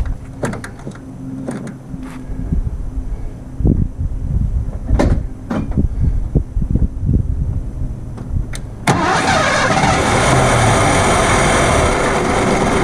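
Ford 302 V8 being cranked on a start attempt just after its distributor timing was advanced by eye to about 8–10 degrees, sputtering with irregular coughs and knocks. About nine seconds in, a sudden loud, steady rushing noise takes over and then stops abruptly.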